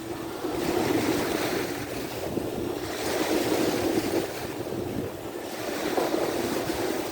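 Sea waves washing onto the shore, swelling and falling back every two to three seconds, with wind buffeting the microphone.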